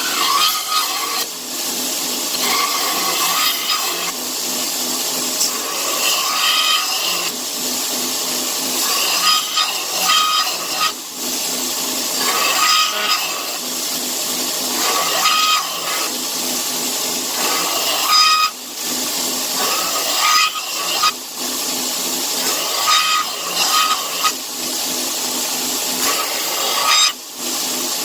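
A power tool running steadily, with short breaks every few seconds where its sound dips and comes back.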